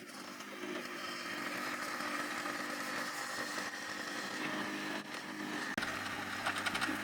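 Compact skid steer loader's engine running steadily, fairly quiet; a deeper hum joins about six seconds in.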